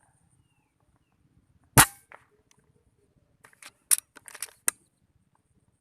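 A single sharp gunshot from a hunting gun, fired at a rice-field bird, followed a moment later by a softer knock. About two seconds after the shot comes a quick run of sharp clicks and clatters.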